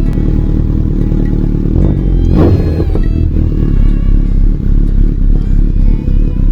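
Honda CB1300 Super Bol d'Or's inline-four engine idling through an aftermarket slip-on muffler, with one quick blip of the throttle about two and a half seconds in.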